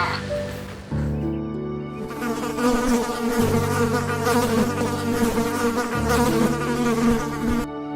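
Buzzing insect, a pitched drone wavering up and down, building about a second in and cutting off just before the end.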